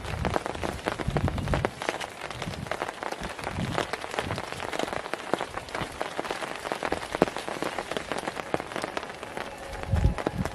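Rain falling, many drops striking a surface close by in a dense, irregular patter, with a few low thuds near the start and again near the end.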